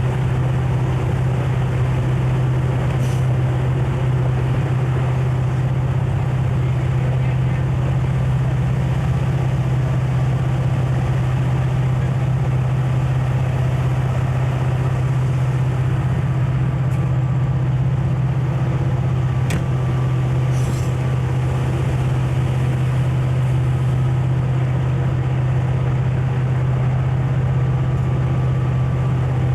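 Conrail diesel locomotive running steadily, a loud low drone with an even hum and no change in pace, with a few faint clicks.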